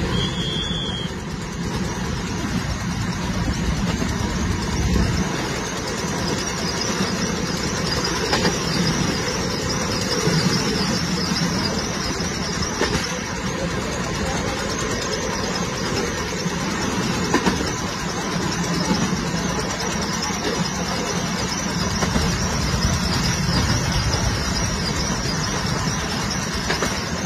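Train running along the track: a steady rumble and rattle of wheels on rails, with a brief high squeal just after the start.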